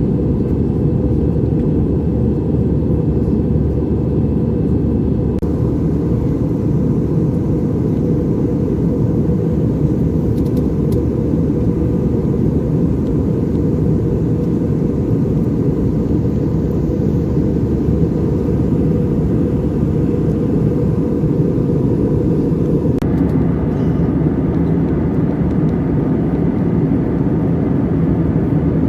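Steady low drone of a jet airliner in flight heard from inside the passenger cabin: engine and airflow noise, with faint steady tones above it.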